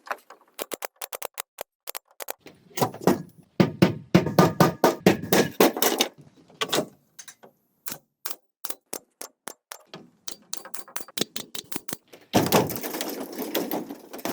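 Quick, irregular series of sharp knocks and clacks, several a second, from hand work on bamboo. The knocks come thicker and heavier in two stretches, one a few seconds in and one near the end.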